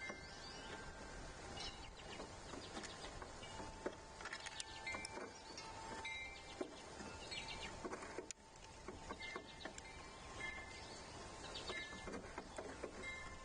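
Outdoor ambience with clear, chime-like ringing tones at several different pitches, each held about half a second to a second, and short bird chirps scattered throughout.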